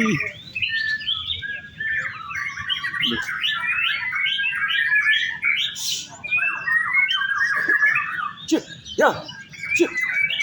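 White-rumped shama (murai batu) singing a long, fast, varied song of rapid chirps and trills without a break.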